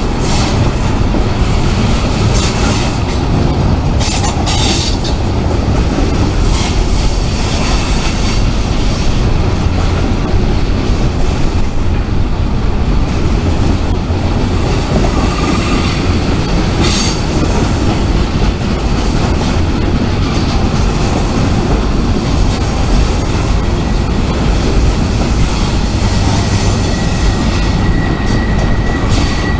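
Freight train rolling past: a steady loud rumble of cars and wheels on the rails, with a few short high wheel squeals and a thin steady squeal setting in near the end.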